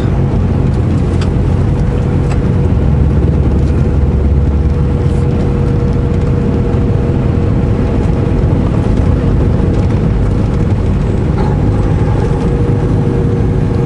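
Semi truck's diesel engine running steadily under way, with a steady hum of tyres on a snow-covered road.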